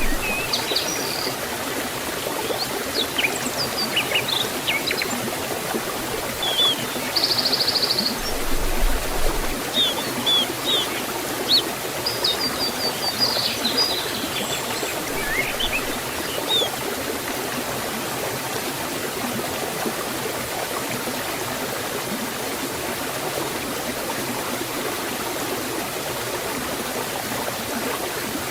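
Forest waterfall and stream water rushing steadily. Small birds chirp and trill over it during the first half, then only the water is heard.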